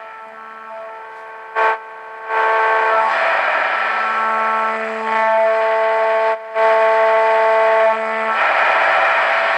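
A 1960s-style Marconi 2004 seven-transistor radio's speaker playing very loud and distorted. It gives held, horn-like tones over hiss, with a crackle early on, a jump in volume a little after two seconds and a brief cut-out near the middle. The output is far louder than it should be, which the owner puts down to an unsuitable bench power supply.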